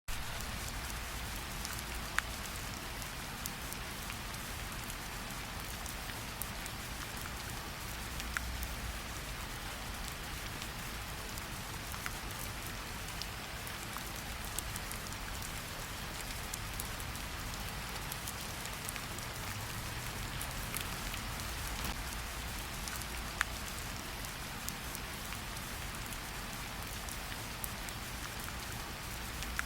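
A steady, even hiss like falling rain, with scattered sharp ticks throughout.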